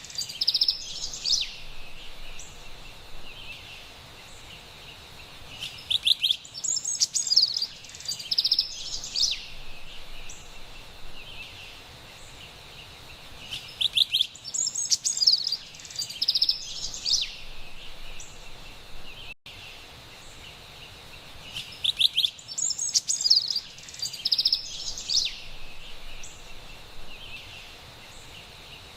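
Carolina wren singing: bright, rapid song phrases in bursts of about three seconds, recurring about every eight seconds over a faint steady background hiss.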